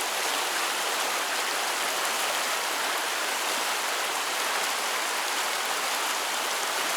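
Steady rushing of a mountain creek's flowing water, an even hiss with no breaks.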